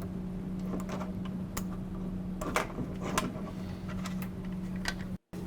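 Small plastic clicks and handling noises as the wiring connectors for the refrigerator's door switch and ambient temperature sensor are unplugged, with two sharper clicks about halfway through, over a steady low hum.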